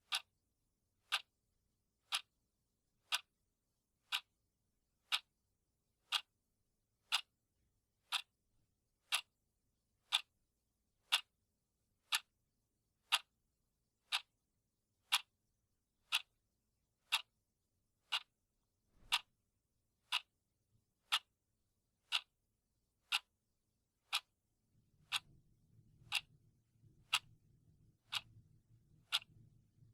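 Clock ticking steadily, one sharp tick a second. A faint low hum comes in under the ticks near the end.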